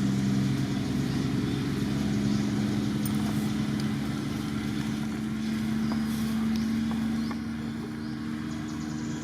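A motor vehicle's engine running steadily, a little quieter near the end.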